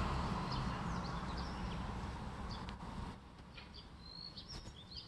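Small birds chirping in many short, high calls over steady outdoor background noise. A louder low rumble, like wind on the microphone, drops away about three seconds in, leaving the chirps clearer.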